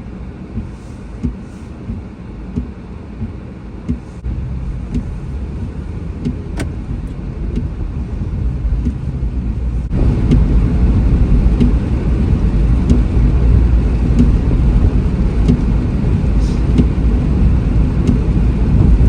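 Car engine and road noise heard from inside the cabin while driving. Regular ticking about three times every two seconds during the first few seconds, then the rumble grows and gets clearly louder about halfway through as the car speeds up.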